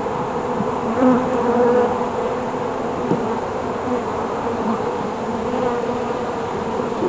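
Honeybees buzzing around an open hive: a dense, steady hum made of many wavering pitches.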